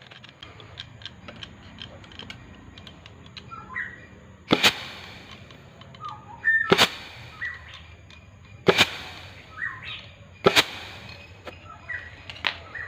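Four loud, sharp knocks about two seconds apart, each ringing briefly, with lighter clicks and short high chirps in between.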